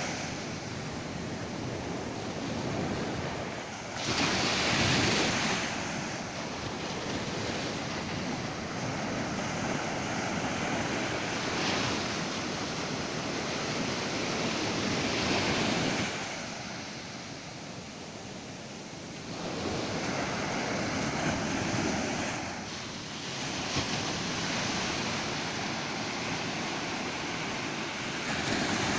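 Ocean surf breaking on a beach: a steady wash of waves that swells and falls every few seconds. The biggest surge comes about four seconds in, and there is a quieter lull in the middle.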